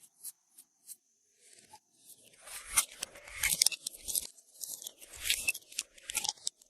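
Glossy slime being squished and stretched by hand, giving irregular sticky crackles and pops. It starts after a few faint clicks about two seconds in.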